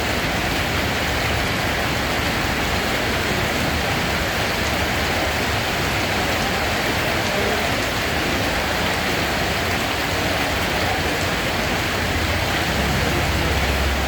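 Steady rain falling, an even hiss without pause, with a low rumble underneath.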